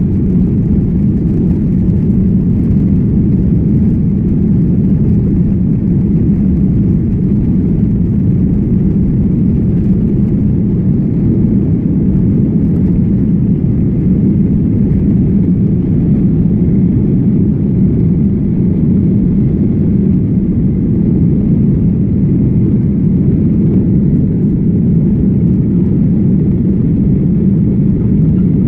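Jet airliner engine and airflow noise heard from inside the passenger cabin: a steady, loud, low rumble.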